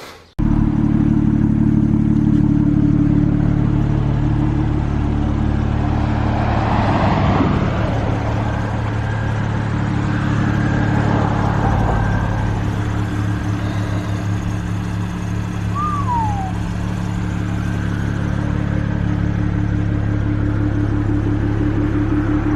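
BMW N54 twin-turbo 3.0-litre straight-six, a freshly swapped-in replacement engine, running at a steady speed with an even hum. A brief high, falling squeak comes about two-thirds of the way through.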